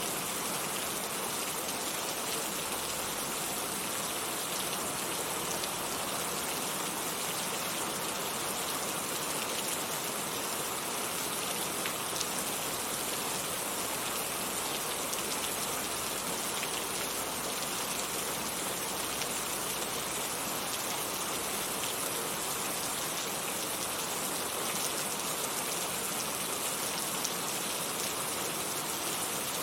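Heavy rain falling steadily, a dense even hiss of rain with a patter of drops on surfaces.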